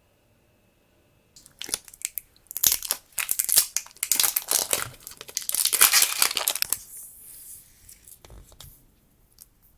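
A package being torn open and crinkled by hand: a dense crackling run of tearing and crumpling. It starts about a second and a half in, is loudest in the middle and fades out near the end.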